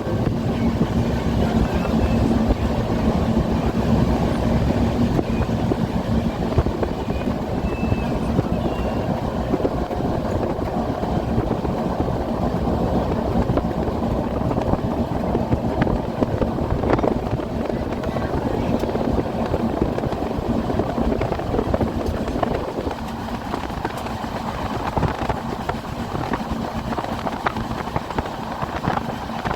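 Train in motion, heard on board: a continuous rumble and rattle of the carriage running on the rails, with a steady hum that fades after about ten seconds and the whole sound easing a little near the end.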